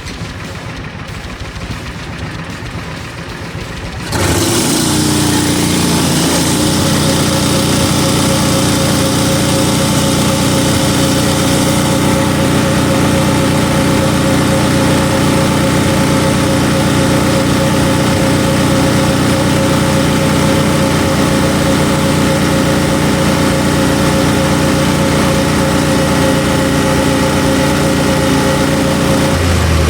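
John Deere Gator's gasoline engine idling, then revved up sharply about four seconds in and held steady at high rpm for over twenty seconds before dropping back near the end. It is a wide-open-throttle decarbonizing run to burn carbon deposits out of an engine that had been running rich and fouling its plugs.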